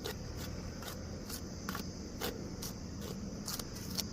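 Seasoned maida flour being mixed in a bowl: rhythmic scraping strokes, about two or three a second.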